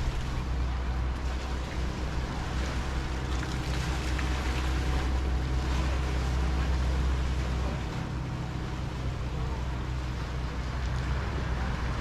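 Small waves washing and surging at the shore, swelling and easing every few seconds, over a steady low rumble.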